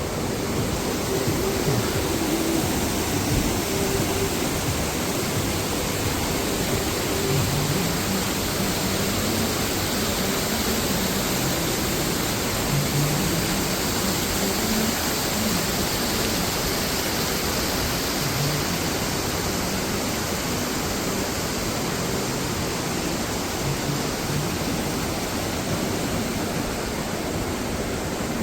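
Waterfall rushing, a loud, steady roar of falling water with no letup.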